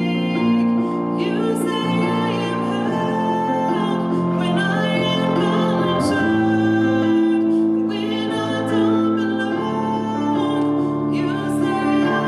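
A woman singing a slow song with long held notes, accompanied by piano.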